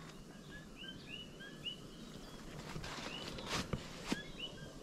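Small birds chirping in scattered short, high calls, with a few light steps or rustles in the vegetation.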